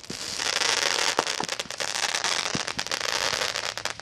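Aerial fireworks going off: a dense, rapid crackle of many small pops starting about half a second in, with a few louder bangs among them.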